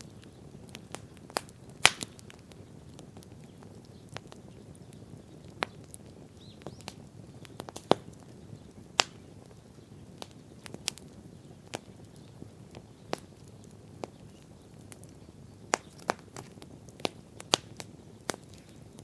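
Wood bonfire burning, crackling with irregular sharp pops over the low, steady noise of the flames. The loudest pops come about two seconds and eight seconds in.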